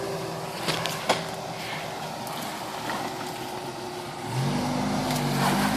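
1981 Toyota pickup's engine running at low revs as the truck crawls over creek-bed rocks, with a few sharp knocks about a second in. Just past four seconds the engine revs up and gets louder.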